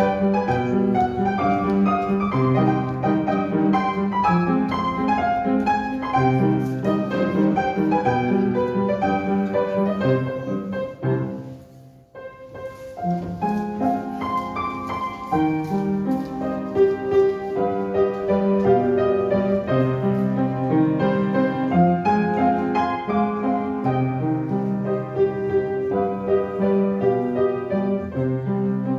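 Instrumental piano music, a slow piece played in chords; it fades out about eleven seconds in and picks up again a second later.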